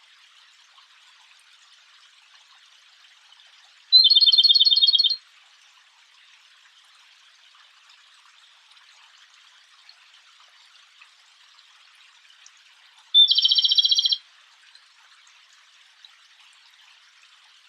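A songbird singing two short, loud trills of rapidly repeated high notes, each about a second long, roughly nine seconds apart, over a faint steady background hiss.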